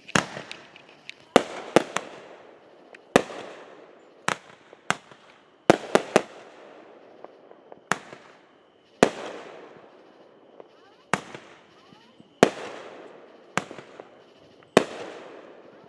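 Fireworks going off in quick succession: about fifteen sharp bangs, roughly one a second, each trailing off as it fades.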